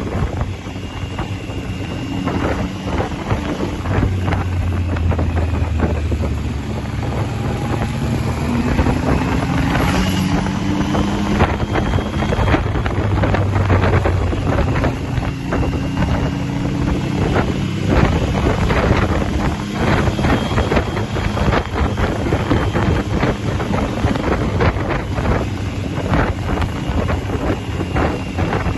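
Motorcycle engine running on the move, its pitch rising and falling repeatedly, with heavy wind buffeting the microphone.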